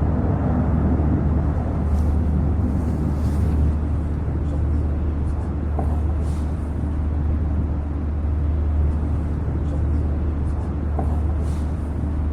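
A steady low rumble with a noisy hiss above it, unchanging throughout.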